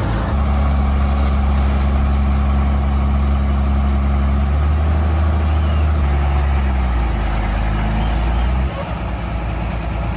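Heavy truck engine running steadily at low revs, its pitch shifting about halfway through and dropping back near the end.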